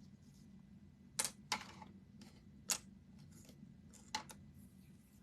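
A few light, sharp clicks and taps, about five, spaced irregularly, over a faint steady room hum.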